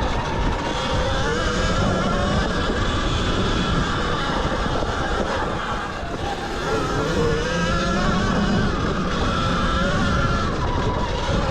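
Zero XB electric dirt bike being ridden: the motor's whine rises and falls with speed over heavy wind rumble on the microphone.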